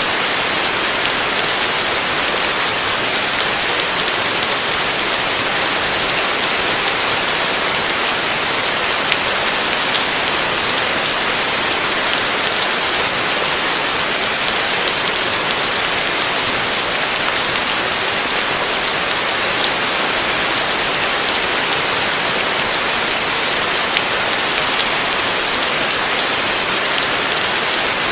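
Heavy rain falling steadily on a roof, a dense even hiss with a few sharper drop ticks.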